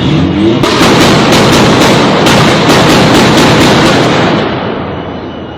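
A fire crackling and popping in a fast, loud run of sharp pops. It starts about half a second in and fades away near the end.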